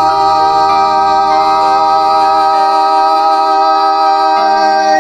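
A singer holds one long, steady note, with little accompaniment under it.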